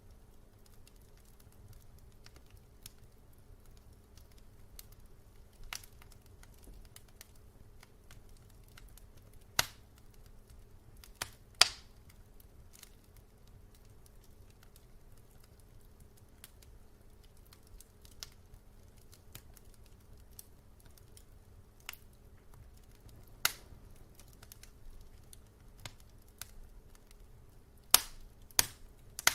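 Wood fire burning in a fireplace: irregular sharp crackles and pops, a few louder snaps about twelve seconds in and several close together near the end, over a low steady rumble.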